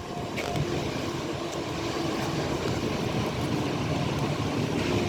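Train running through a station: a steady rumble of wheels on the rails with a faint humming tone on top.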